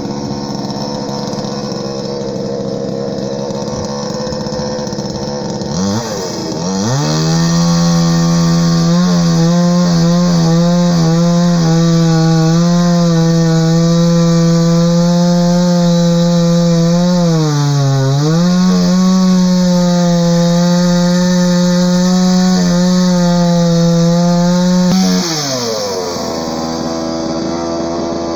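Chainsaw idling, then revved up about six seconds in and held at high speed for nearly twenty seconds, sagging briefly once, before dropping back to idle near the end.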